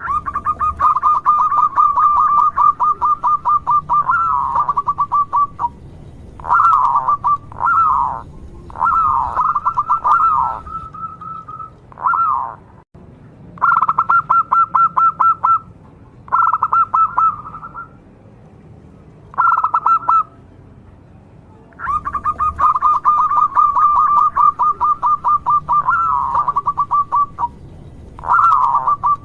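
Zebra dove (perkutut) singing: bouts of rapid staccato cooing notes, several per second, each bout a second to several seconds long with short pauses between, some notes ending in a quick downward swoop.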